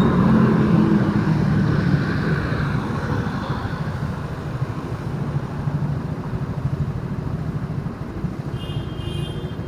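Road vehicle engine and traffic noise while driving on a city street: a steady low rumble that is louder at first and eases off after about two seconds. A short high-pitched tone sounds near the end.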